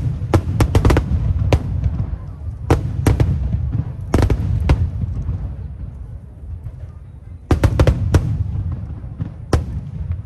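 Aerial fireworks shells bursting in quick clusters of sharp bangs, volley after volley, with a short lull about halfway through and a steady low rumble underneath.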